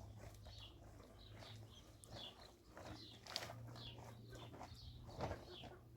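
Faint, irregular chirping of small birds over a low steady hum, with a soft knock about three seconds in and another near the end.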